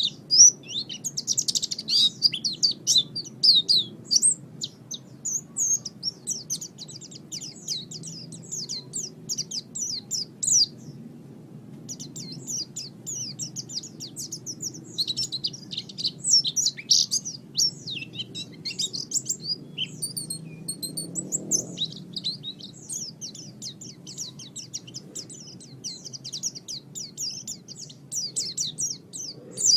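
White-eye (pleci) singing a rapid, high twittering song in bouts several seconds long, with short pauses between, over a faint steady low hum.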